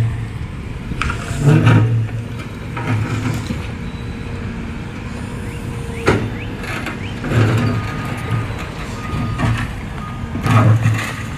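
Diesel engine of a Cat M322F wheeled excavator running under working load, swelling several times as it digs and swings, with a sharp knock about six seconds in.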